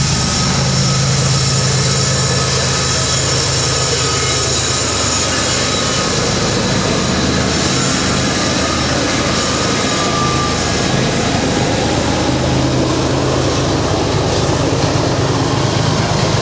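BNSF diesel locomotives passing close by at speed, their engines giving a steady low drone, followed about halfway through by the continuous rumble and clatter of coal hopper cars rolling over the rails.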